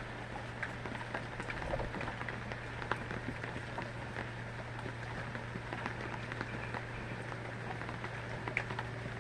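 Rain falling steadily, with many small drops ticking on a hard surface, over a steady low hum.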